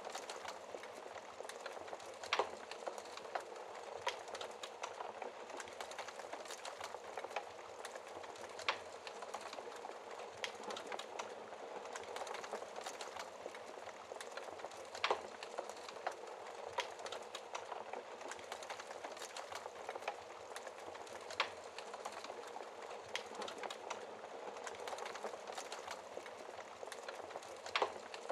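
Wood fire in a fireplace crackling, with a steady soft hiss of flames under constant small snaps and a handful of louder pops every several seconds.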